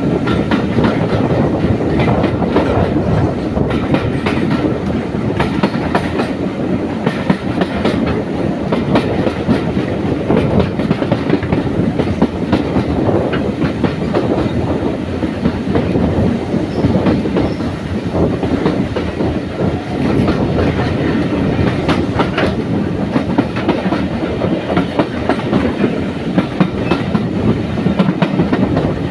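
Heritage railway passenger coach running along the line, a steady rumble of the train with wheels clicking over the rail joints, heard from an open carriage window.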